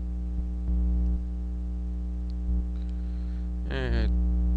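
Steady electrical mains hum with a stack of buzzing overtones, jumping louder briefly a couple of times and again near the end. A brief voice sound comes near the end.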